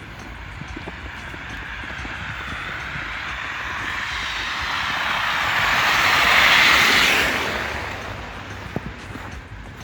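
A vehicle passing by: its tyre and road noise builds slowly for about six seconds, peaks, then fades quickly.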